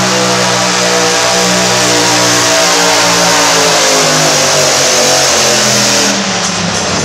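Garden pulling tractor's V-twin engine running hard under load down the track, its pitch wavering and sagging a little as it pulls. About six seconds in the sound changes abruptly and drops slightly in level.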